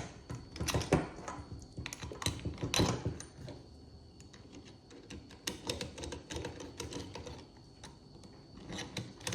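Small metal parts of a Holley carburettor being handled and fitted by hand as the fuel bowl and pump lever go back on: irregular light clicks and taps, with a few louder knocks in the first three seconds and more clicking near the end.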